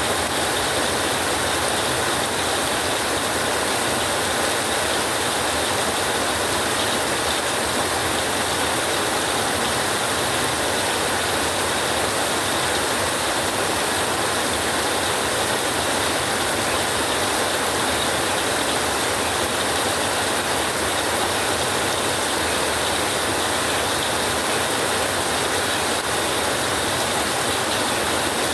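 Heavy rain drumming steadily on a tin roof, a dense even patter that keeps a constant level throughout.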